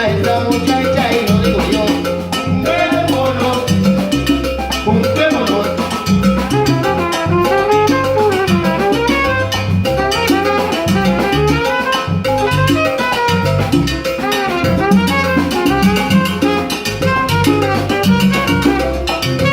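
Salsa band playing live, a full ensemble with brass and drums over a rhythmic bass line.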